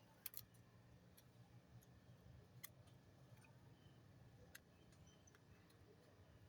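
Near silence over a low hum, broken by a few faint sharp clicks, the clearest about a third of a second in, near the 3-second mark and shortly after 4 seconds.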